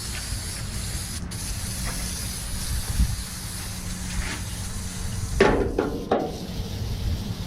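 Steady hissing noise with a low hum beneath it, and a brief, sharper pitched sound about five and a half seconds in.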